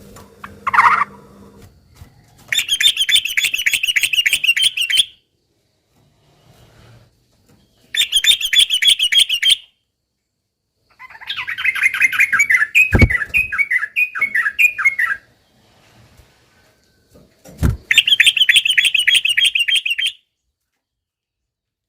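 Yellow-vented bulbul (trucukan) singing four quick bubbling phrases of rapidly repeated notes, with pauses between them; the third phrase is longer and ends in a series of falling notes. Two short low thumps come during the second half.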